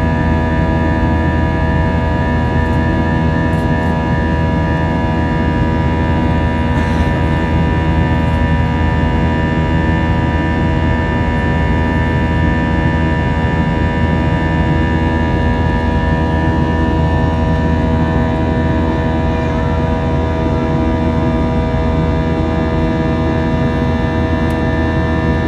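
Airbus A321 cabin noise with the jet engines running steadily: a constant drone of several steady tones over a low rumble.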